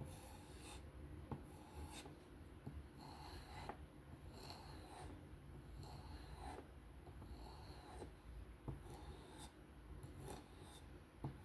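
A knife edge being stropped on a hard strop loaded with 1-micron emulsion: faint, repeated rubbing strokes, about one or two a second, working off the last of the burr at the apex.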